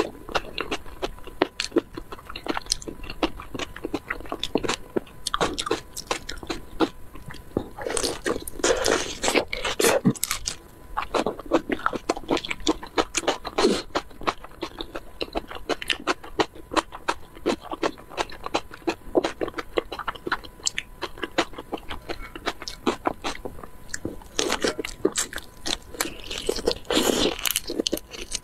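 Close-miked eating of spicy raw shrimp: a dense run of wet mouth clicks, chewing and crunching, with louder bursts about a third of the way in and near the end.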